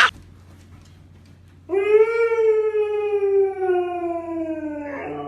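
A cat giving one long drawn-out yowl that starts about two seconds in and slowly falls in pitch.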